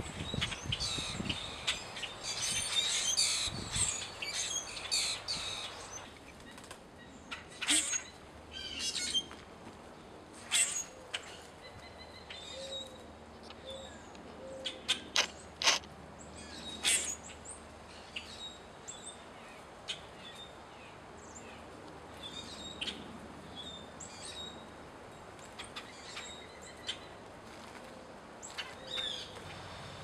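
Wild birds chirping and calling: a busy run of quick high chirps in the first few seconds, then scattered short sharp calls.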